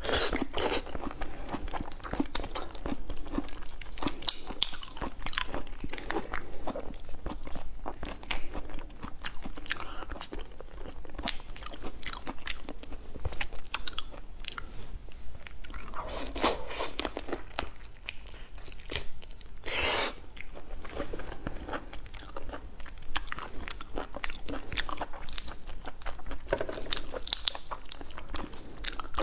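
Close-miked eating of raw prawns: wet chewing and biting with many small clicks and crackles as the shells are bitten and pulled apart by hand. There are louder bursts about sixteen and twenty seconds in.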